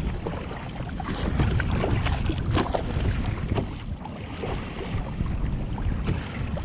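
Wind buffeting the microphone over water sloshing around a kayak at sea, with a few short sharp ticks or knocks from about one and a half seconds in.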